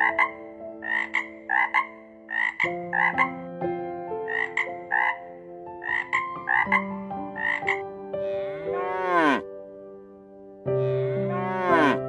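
A frog croaking in quick doubled calls for about the first seven seconds, then a dairy cow mooing twice in long drawn-out moos, the second running on past the end. Soft sustained keyboard chords play underneath.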